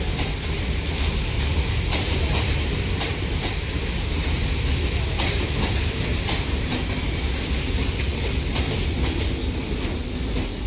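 Indian Railways passenger coaches rolling past at close range: a steady rumble with the wheels clacking over the rail joints.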